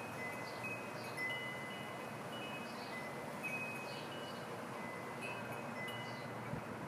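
Wind chimes ringing softly and irregularly, a few clear high notes now and then over a steady hiss.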